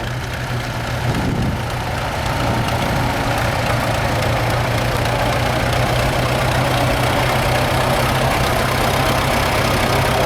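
Vintage farm tractor engine running at a steady low speed, getting louder over the first couple of seconds as it comes closer, then holding steady.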